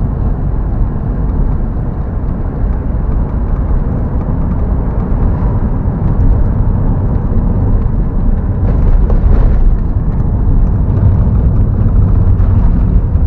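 A car driving along: steady low rumble of engine and road noise, growing a little louder about halfway through.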